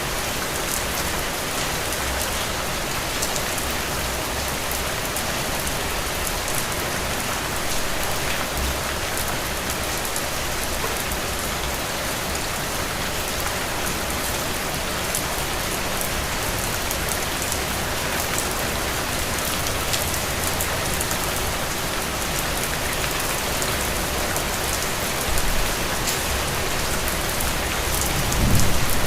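Heavy rain falling steadily, a dense hiss with fine drop impacts. A low rumble swells briefly twice near the end.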